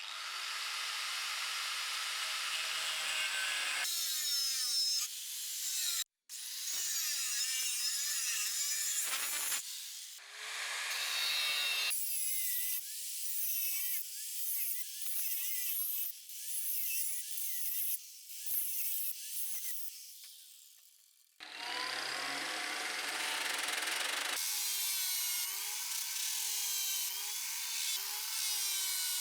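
A power tool working on material, its motor pitch wavering as the load changes. The sound cuts off and restarts abruptly several times.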